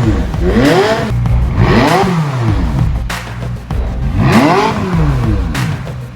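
McLaren 570S twin-turbo V8 revved three times, its pitch climbing and falling back with each blip, over background music.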